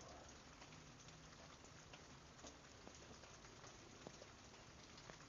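Faint steady rain falling, with scattered ticks of single drops.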